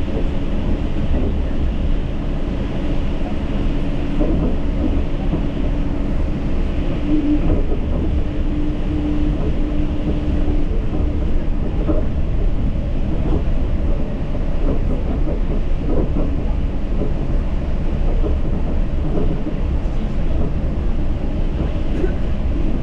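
Yurikamome rubber-tyred automated guideway train running along its elevated concrete guideway, heard on board: a steady low rumble of tyres and running gear. A held hum sounds for a few seconds about seven seconds in, and there are a few faint knocks.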